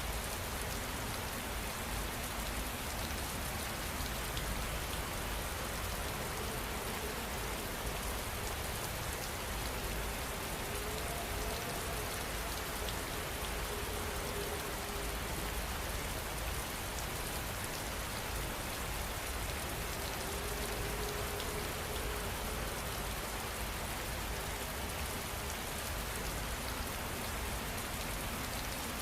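Steady rainfall, an even, unbroken wash of rain noise.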